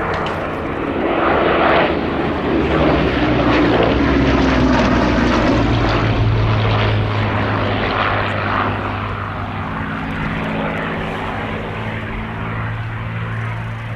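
Rolls-Royce Merlin V12 engine of a WWII fighter on a display pass. It swells a few seconds in as its pitch falls while the aircraft goes by, then settles into a steadier drone.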